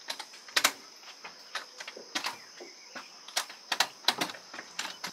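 Crutches and steps knocking on the floor in an irregular series of sharp clicks as a man walks away on aluminium crutches, over a steady high chirring of crickets.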